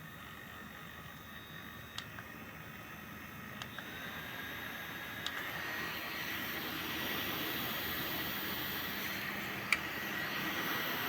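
Andowl neck fan's small motor whirring with a thin whine. After a few sharp button clicks it steps up in speed twice in the first half, growing louder.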